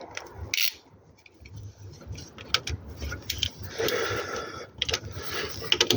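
Hand tools on metal: scattered sharp clicks and ticks of a socket wrench and extension, with short stretches of scraping and rubbing, one about four seconds in and another near the end.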